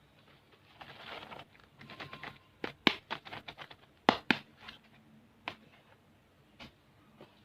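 Small plastic candy packets being handled: a brief rustle of wrappers about a second in, then a string of sharp clicks and taps. The loudest come in two close pairs near the middle, with a few scattered ticks after.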